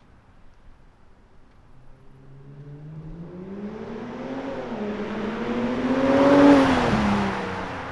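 BMW X5 45e's turbocharged inline-six, through an OPF-delete midpipe and valved catback exhaust, accelerating past: the engine note climbs, dips at a gear change about four and a half seconds in, is loudest as the car passes, then drops in pitch and fades as it moves away.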